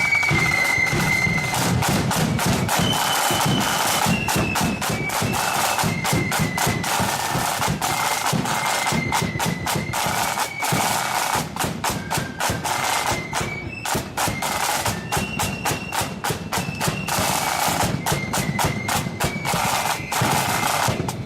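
Blood-and-thunder flute band playing on the march: snare drums rolling and striking rapidly over a bass drum, with flutes playing a high melody that comes and goes.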